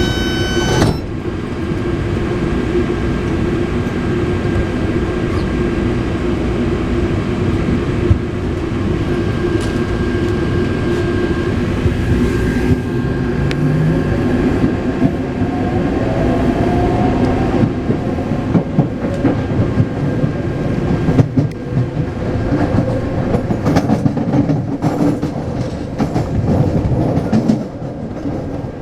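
Taipei Metro C381-series electric train running, a steady rumble with a motor whine that rises in pitch about halfway through. In the last third the wheels click sharply and irregularly over the track.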